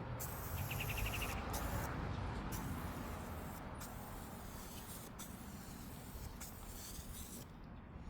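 Aerosol can of black spray paint hissing in a run of repeated bursts with short breaks between them. A brief, fast chirping trill sounds about a second in.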